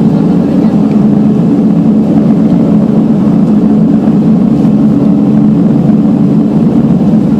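Steady drone of a Beechcraft 1900D's twin turboprop engines and propellers, heard inside the passenger cabin.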